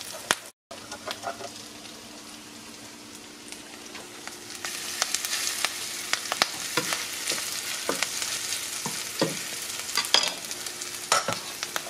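Kale and yellow squash patties frying in avocado oil, a sizzle that grows louder about four to five seconds in as a second scoop of batter goes into the pan. Scattered sharp clicks of the metal scoop and wooden spatula against the pan sound through it.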